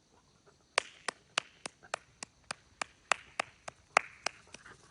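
Hands clapping in a steady rhythm, about three claps a second, thirteen claps in all, starting just under a second in.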